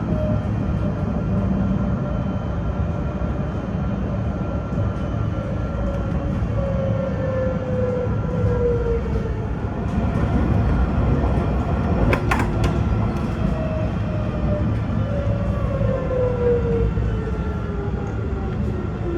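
Alstom Citadis tram running on its rails: a steady low rumble, with the electric traction motors' whine falling in pitch twice as the tram eases off, and a single sharp clank about twelve seconds in.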